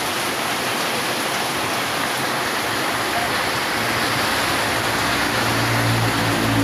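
Steady downpour of rain, a constant hiss. About five seconds in, the low, even hum of a vehicle engine joins it.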